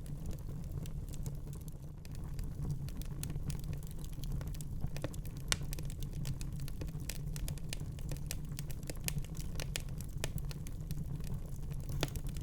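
Fireplace fire crackling: irregular sharp snaps and pops over a steady low rumble, with one louder pop about five seconds in.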